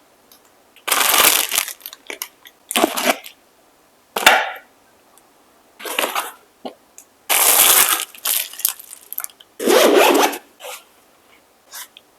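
Packaging being handled during an unboxing: about half a dozen short bursts of rustling and crinkling, with small clicks and taps between them.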